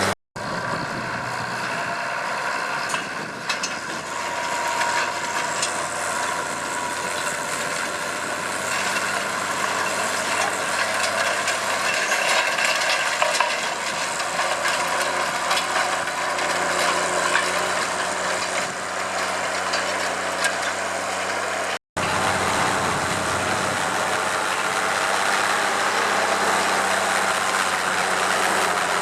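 Case IH 1455 XL tractor's diesel engine running steadily under load while pulling a stubble cultivator, with some mechanical rattle. The sound cuts out abruptly for a moment twice, near the start and about 22 seconds in.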